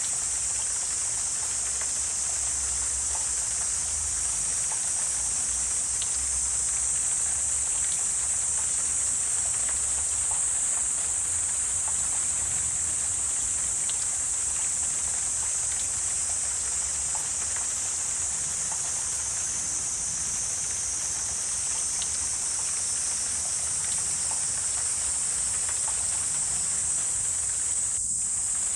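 Wetland ambience: a steady high-pitched chorus of insects, with a few faint scattered ticks and a low rumble underneath.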